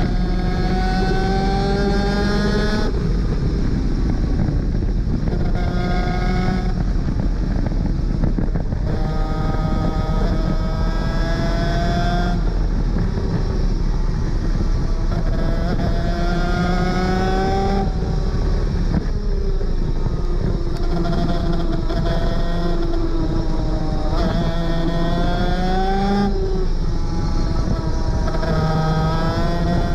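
Superkart 250's two-stroke engine at racing speed, its pitch climbing again and again and then dropping as it shifts up through the gears, with a few brief lulls where it eases off.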